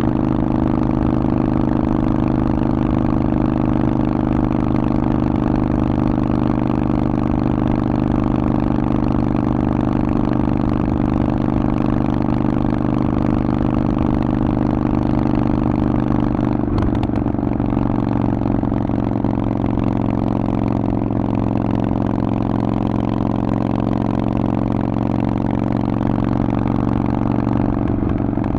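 Harley-Davidson Forty-Eight's air-cooled V-twin running through a Vance & Hines aftermarket exhaust, holding steady revs with a brief change in the sound about two-thirds of the way through.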